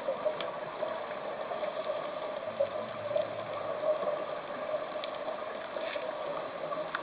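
Underwater ambience picked up through a camera's housing: a steady hiss with scattered faint clicks.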